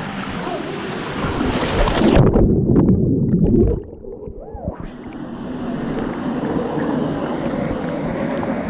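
Water rushing in a waterfall pool. About two seconds in, the treble drops away and the sound turns muffled and gurgling for a couple of seconds, with a few small clicks. Then the rush of water comes back, duller than at first.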